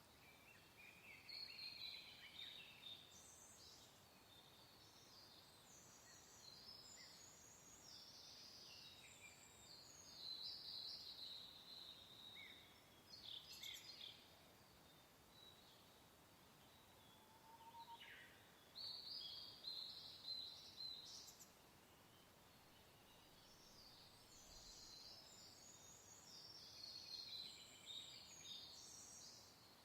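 Faint birdsong: bursts of high chirps and twitters come and go in clusters every few seconds, over a soft, steady wind hiss.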